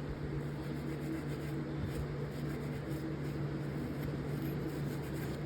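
Steady mechanical hum, with faint scratching of very fine 0000 steel wool rubbed lightly over the knife's metal.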